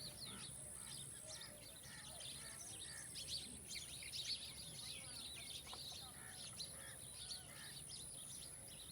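Many birds chirping and calling at once, a dense chorus of short, high chirps, with a few lower calls among them. A steady high-pitched tone runs above them.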